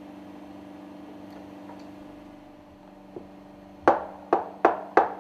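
A steady low hum, then from about four seconds in a quick run of sharp knocks, about three a second, each with a short ringing tail, as parts of a fuel pump puncture valve are knocked loose during dismantling.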